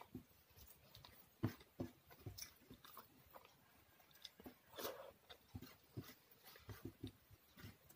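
Quiet, close eating sounds: soft wet chewing of dal and rice eaten by hand, with scattered small clicks and smacks.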